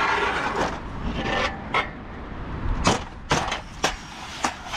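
Salvaged scrap being shoved and set into place among other items: rough scraping at first, then about four sharp knocks in the second half.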